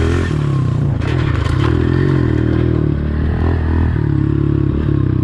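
Small four-stroke Honda pit bike engine running under throttle as the bike rides, its pitch rising and falling as the rider opens and closes the throttle. A few clattering knocks come about a second in.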